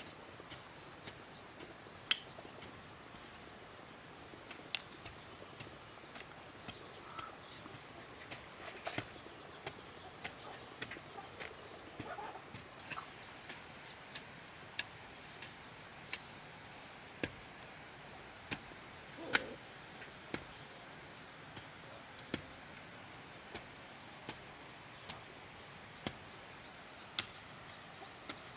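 Repeated sharp knocks of a hand tool striking, irregular at about one or two a second with one louder strike about two seconds in, over a steady high chirping of insects.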